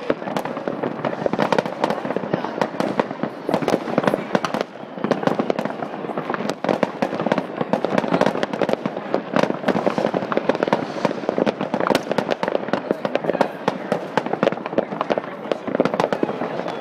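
Many fireworks and firecrackers going off at once across a city: a dense, unbroken run of overlapping bangs and crackles.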